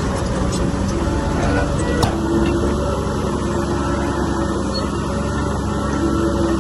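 Heavy diesel earthmoving machinery running steadily under load, its engine droning, with a sharp click about two seconds in.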